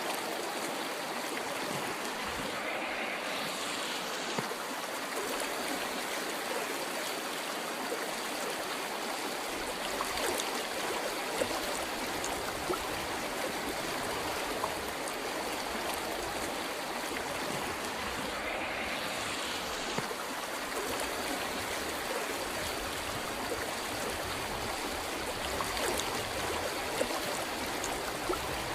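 River water flowing steadily over rocks, an even rushing with small splashes and gurgles.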